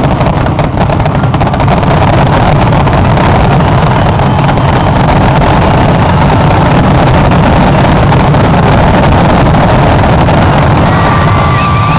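Fireworks grand finale barrage: shells bursting so rapidly that the bangs merge into one continuous, very loud rumble.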